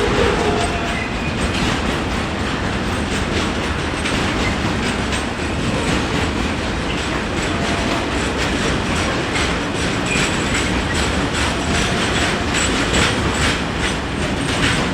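A train rolling past close by, its wheels clattering steadily over the rail joints, with a few brief faint squeals from the wheels.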